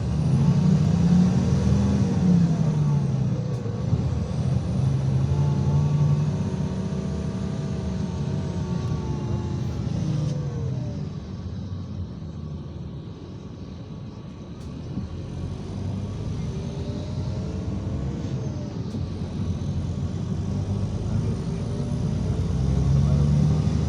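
IVECO Crossway 13M PRO bus's diesel engine and drivetrain under way: a steady low drone with whining tones that rise as the bus accelerates and fall as it eases off. It is loudest early, drops off and quietens for a few seconds past the middle, then builds again toward the end.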